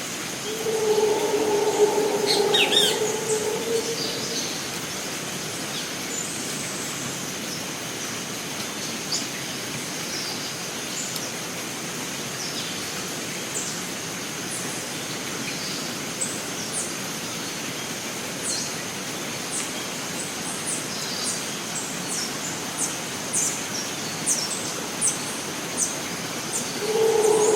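Rainforest ambience: a steady background hiss and a constant high insect drone, with scattered short bird chirps throughout. A low, steady tone lasting about three seconds sounds about a second in and again at the very end; it is the loudest sound present.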